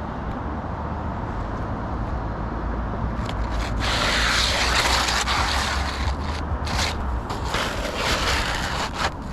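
Brittle, granule-shedding asphalt shingle being pulled out from under the course above: a loud, gritty scrape from about four to six seconds in, then several shorter scrapes, over a steady low rumble.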